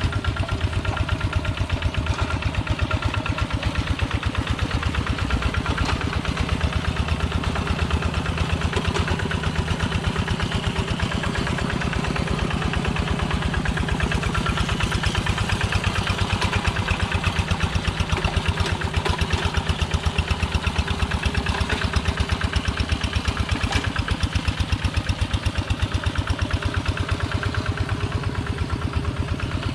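Engine of a Kubota two-wheel walking tractor (Quick G1000) running steadily at an even speed, with a rapid regular pulsing beat.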